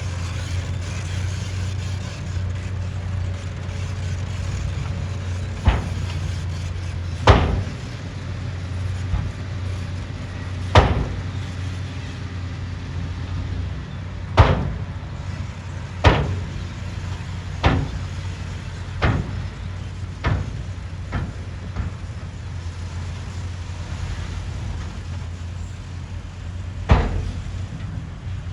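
Bulldozer's diesel engine running steadily with a low hum, broken by about ten sharp knocks spaced unevenly a second or more apart.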